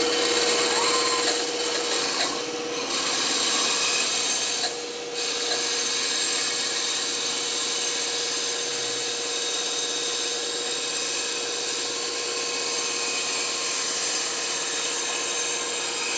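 Electric woodworking power tool running with a steady motor hum while wood is fed into it, making a continuous rasping cutting noise. The cutting noise drops out briefly twice, about two and a half and five seconds in.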